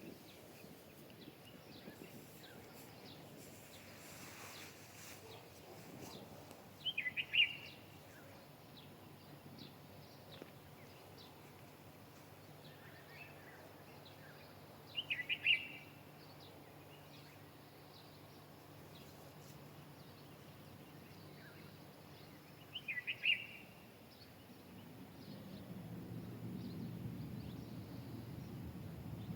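A bird calling outdoors: a short burst of quick high notes, repeated about every eight seconds, over a faint low background hum.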